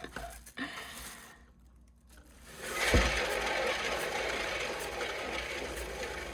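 Cake-decorating turntable spun by hand, starting with a low thump about three seconds in. A rattling whir from its turntable bearing follows and slowly fades as the spin coasts down.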